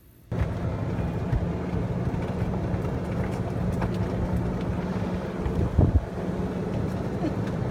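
Boat motor running steadily under way, a low even hum with wind buffeting the microphone.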